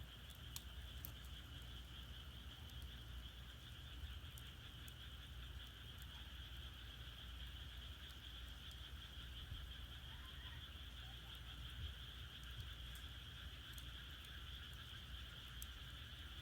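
Frogs calling in a steady, faint chorus, with a few scattered sharp pops from firewood burning in an agungi firebox and a low rumble underneath.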